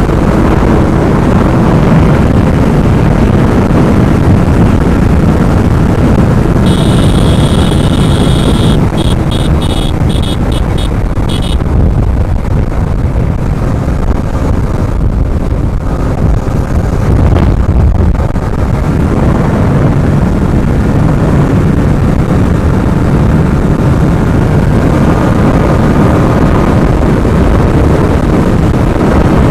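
Yamaha R15M 155 cc single-cylinder motorcycle ridden at speed, its engine running under heavy wind buffeting on the microphone. About seven seconds in, a high beeping tone sounds and then pulses on and off for a few seconds.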